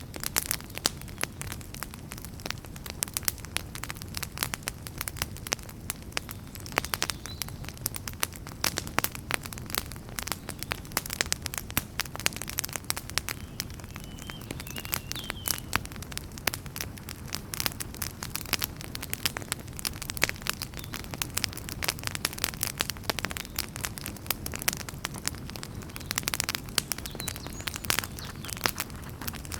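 Wood fire burning in a fireplace: dense, irregular crackling and popping of burning logs over a low, steady rumble of the flames.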